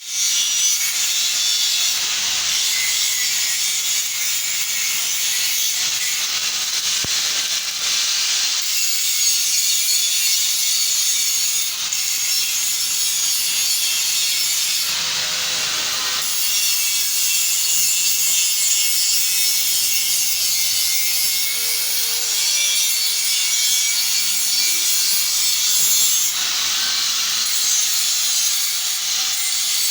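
Continuous harsh, hissing noise of metalwork, holding steady with little change throughout.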